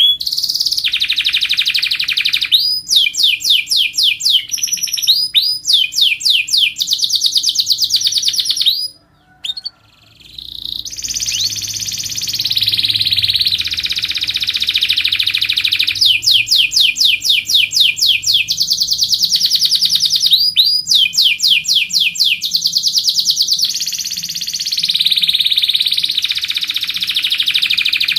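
Domestic canary singing a long, loud song of rapid trills and rolling phrases, with a short pause about nine seconds in.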